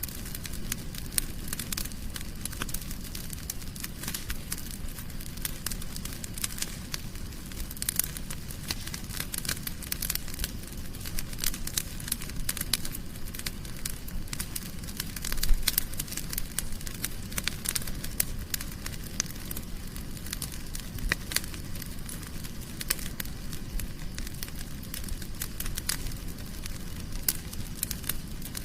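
Wood fire crackling in a fireplace: a steady run of small sharp snaps and pops over a low rumble, with one louder pop about halfway through.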